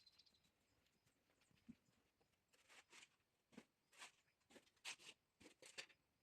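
Near silence, with faint scattered ticks and scrapes that come more often in the second half.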